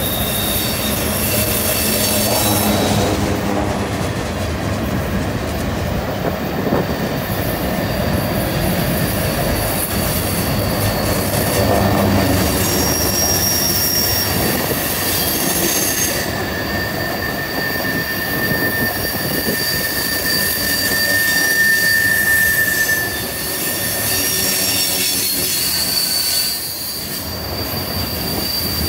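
Freight cars of a passing train rolling through a curve, their wheels rumbling steadily on the rail. High-pitched wheel flange squeal comes and goes, with a lower squeal tone holding for several seconds after the middle.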